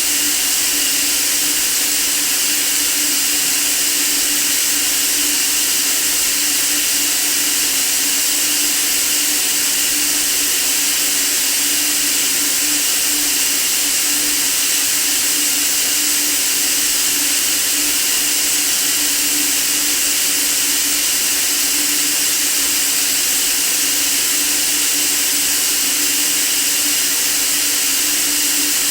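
Steady white noise: an even, unchanging hiss, brightest in the high treble, with a faint low hum underneath.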